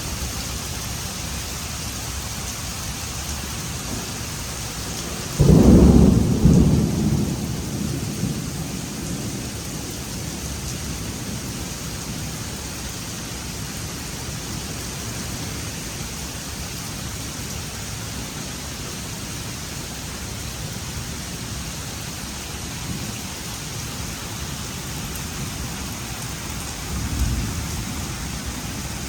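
Steady rain from a supercell thunderstorm, with a sudden loud thunderclap about five seconds in that rumbles away over a couple of seconds, and a fainter roll of thunder near the end.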